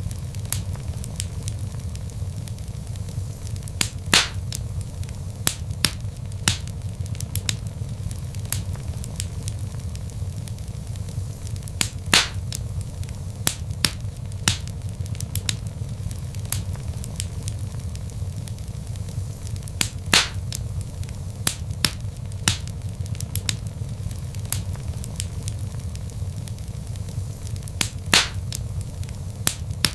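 Log fire crackling: frequent small snaps and four louder pops about eight seconds apart, over a steady low rumble of the burning logs.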